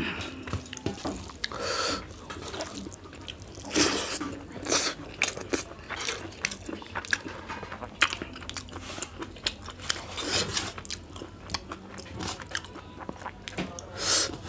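Close-up eating sounds: a person chewing and smacking a mouthful of rice and spicy chutney eaten by hand, with many short wet clicks and a few louder crunchy bursts. Fingers mix and squish rice on a metal plate between bites.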